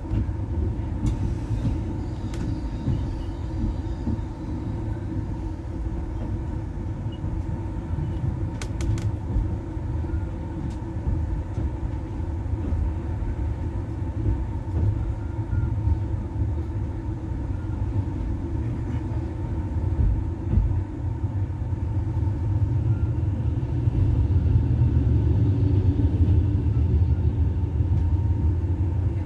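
Passenger train rolling over yard tracks, heard from inside the coach as a steady low rumble. There are a few sharp clicks near the start and about nine seconds in, and the rumble grows louder over the last several seconds.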